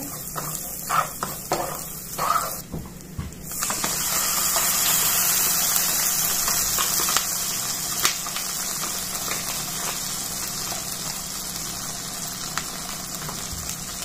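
Bacon and garlic frying in a pot and being stirred with a silicone spatula. About four seconds in, a loud, steady sizzle starts as tomato sauce is poured into the hot bacon fat, and it slowly eases off.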